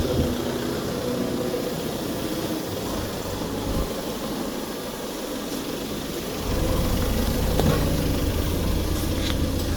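Machinery running with a steady mechanical hum. About six and a half seconds in, a deeper, louder motor hum starts up and keeps running.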